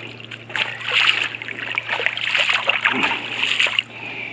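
Shallow water splashing and sloshing in a run of irregular splashes, loudest about a second in and again near the end.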